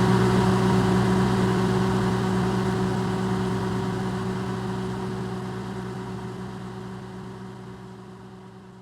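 Electrolux microwave oven running, recorded amplified: a steady hum with a low drone and a few held tones over a soft hiss. It fades out gradually all the way through.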